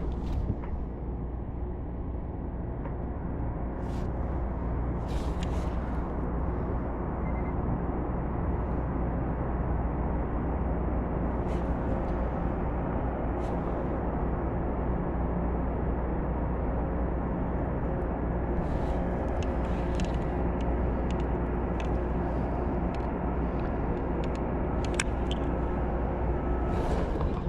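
Steady low engine drone with a few faint steady tones in it, and scattered light clicks and knocks over the top.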